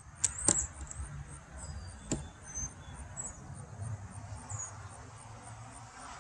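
Three sharp knocks and clicks of wooden beehive parts being pried and handled with a hive tool, two close together near the start and one about two seconds in, over a low rumble. A faint high ticking repeats about three times a second.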